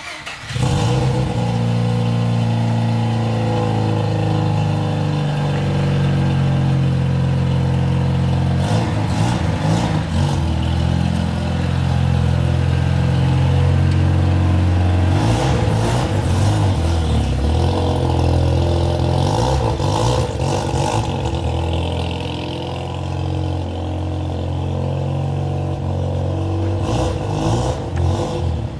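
Mazda RX-7 FC's 13B turbo rotary engine on a cold start, catching about half a second in and then running at a fast idle. Its note steps in pitch a few times and settles somewhat lower near the end.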